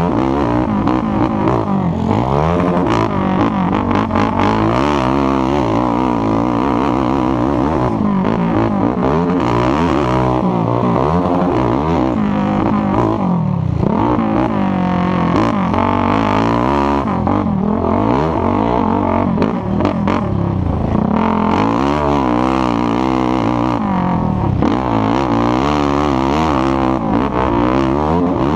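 ATV engines racing at full throttle, the engine note rising and falling over and over as the riders accelerate, shift and back off, with more than one engine heard at once.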